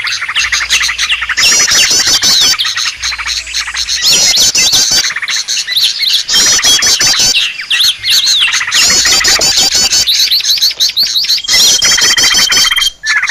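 A layered bird-lure recording of many small songbirds chirping and chattering together, dense and continuous, with the same sweeping call phrases coming back every couple of seconds as if looped. Near the end a single high, steady whistle is held for about a second.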